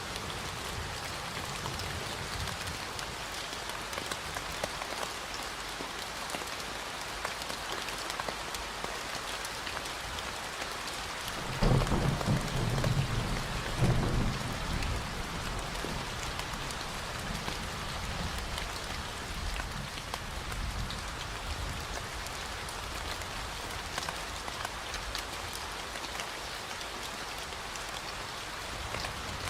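Steady rain falling and pattering on surfaces, with a brief low rumble that swells twice about twelve and fourteen seconds in.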